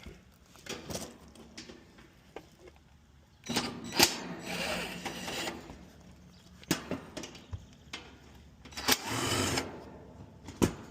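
A handheld power drill or driver runs in two short bursts of about two seconds each, among clicks and knocks of hands working on metal panels.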